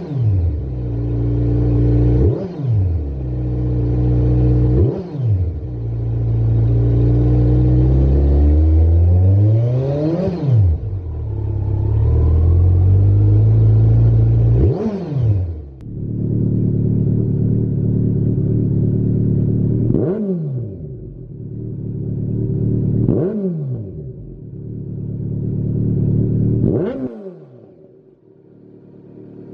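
Kawasaki Z900 inline-four engine breathing through a Lextek XP13C aftermarket silencer, revved repeatedly: several quick throttle blips and one longer climb to high revs and back in the first half, then settling to a steadier, quieter run with three short blips before fading near the end.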